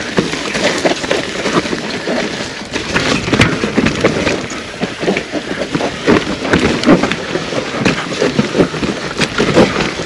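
Mountain bike rolling over a rough dirt trail: tyres crunching over ground and roots, with a steady irregular clatter of knocks and rattles from the bike.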